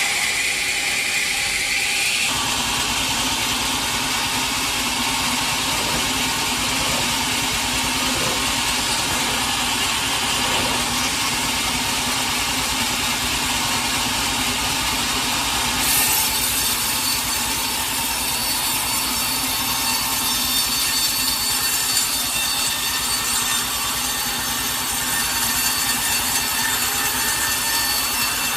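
Sawmill saw cutting through a teak log: a steady, continuous noise of blade in wood. About two seconds in a whine stops and the cutting sound settles in, and from about sixteen seconds it turns brighter and harsher.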